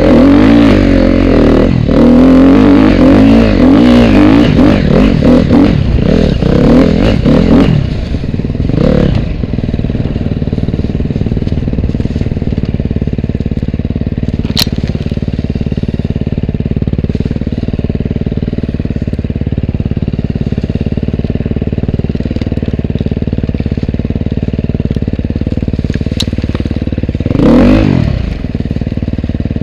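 Off-road motorcycle engine revving up and down under riding for the first several seconds, then settling to a steady idle. Near the end there is one short rev that rises and drops back.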